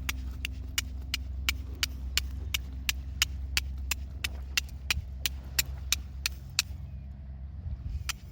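Hand hammer striking metal in a steady forging rhythm, about three sharp ringing blows a second, with a pause of about a second near the end. A steady low rumble runs underneath.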